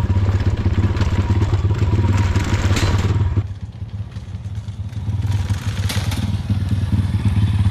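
Small single-cylinder pit bike engine running close by. It drops off for a couple of seconds past the middle and then picks up again, with a few light clattering knocks.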